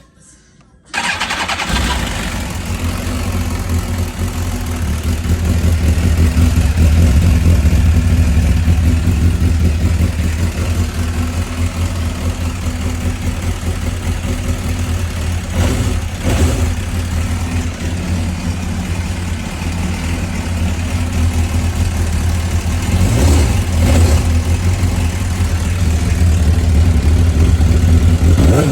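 Suzuki GSX-R1000 (K6) inline-four on its stock exhaust, starting about a second in and then idling, with a few brief throttle blips later on.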